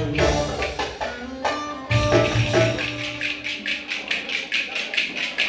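Ankara folk dance music (oyun havası) with a fast, even hand-percussion beat; about halfway through the melody and bass drop away, leaving mostly the quick strikes at about five a second.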